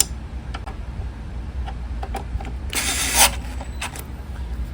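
Plastic cover being fitted back onto a belt/disc sander by hand: scattered light clicks and knocks, with a short scraping rush about three seconds in, over a steady low rumble.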